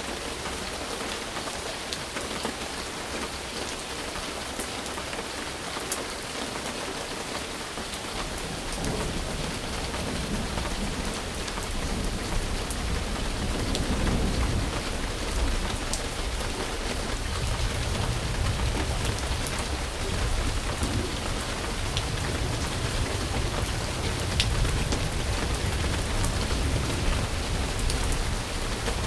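Steady rain falling on a surface, with sharp individual drop hits. A low rumble of thunder comes in about a third of the way through and grows heavier.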